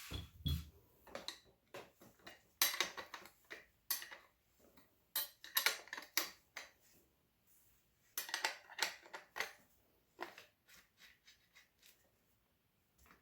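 Small metal parts and tools clinking and rattling as they are handled on a BMX bike being restored, in three short bursts of clatter with scattered single clicks between.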